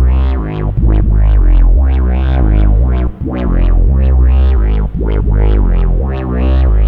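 Alesis Micron SE synthesizer playing a custom bass preset: a deep bass line of stepping notes, each note opening with a quick bright filter sweep.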